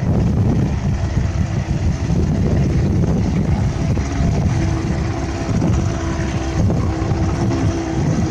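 Jet airliner engines rumbling loudly, with wind buffeting the microphone; steady engine tones come in about halfway through.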